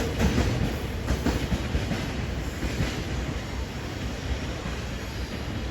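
GV-E197 series train running past: a low rumble from its running gear with wheels clicking over rail joints in the first second or so, fading slowly as it moves away.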